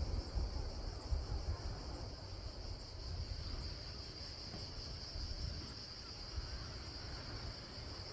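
Steady, unbroken high-pitched chorus of insects, over a low uneven rumble like wind on the microphone.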